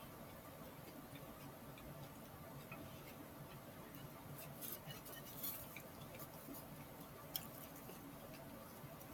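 Faint eating sounds from someone chewing a soft burrito: quiet mouth noises with scattered small clicks, the sharpest one about seven seconds in.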